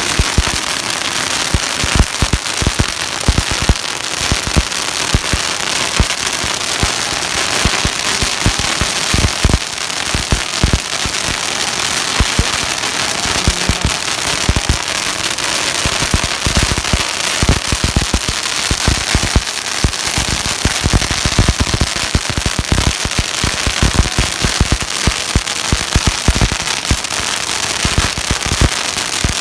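Long strings of firecrackers going off in a continuous, rapid crackle, with frequent louder bangs standing out.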